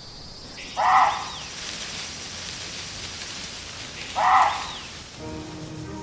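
Reeves's muntjac (Formosan barking deer) giving two short barks about three seconds apart, over a steady high insect buzz.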